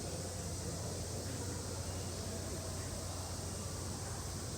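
Steady railway station ambience: a constant low hum under an even background noise, with faint indistinct voices.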